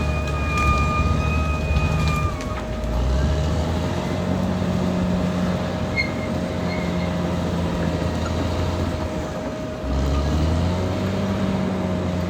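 Caterpillar D6R XL bulldozer's diesel engine running under working load, easing off about two seconds in and again near ten seconds before picking back up. A steady high whine over the engine stops about two seconds in.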